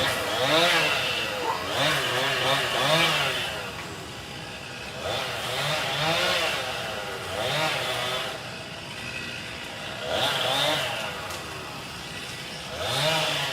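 Chainsaw engine revved in repeated bursts, its pitch rising and falling with each squeeze of the throttle, with brief lulls between runs.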